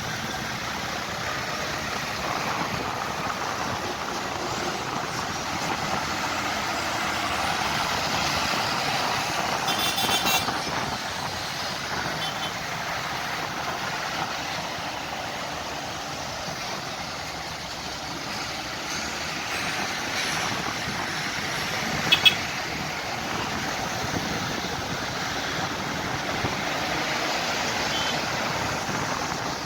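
Tractor engines running steadily as tractors on a road run drive along. A few short sharp sounds cut in; the loudest is a quick double sound about two thirds of the way through.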